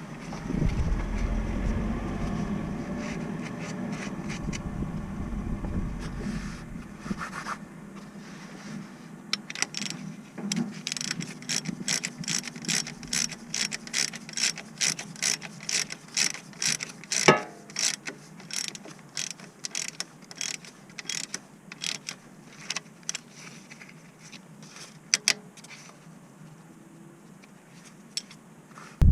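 Hand ratchet clicking as a fastener is wound in, a steady run of sharp clicks about two a second, with one louder knock partway through. A low rumble fills the first few seconds.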